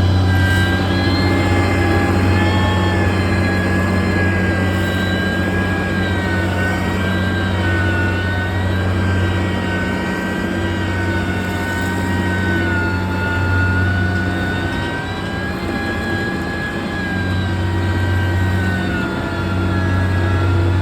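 Heavy road-construction machine's diesel engine running steadily under work, with a deep hum and a high, slightly wavering whine over it. The low hum eases off briefly around halfway and again a few seconds later.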